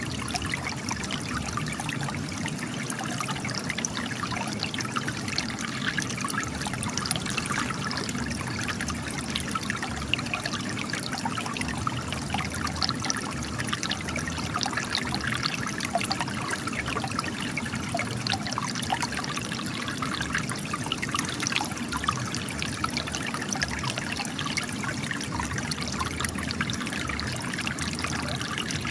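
Spring water trickling and splashing as it gushes out of cracks in rocks, a steady busy patter of small splashes.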